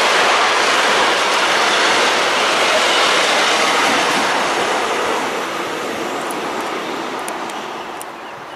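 Rolling noise of a passing train, a loud, steady rushing that fades away over the last few seconds.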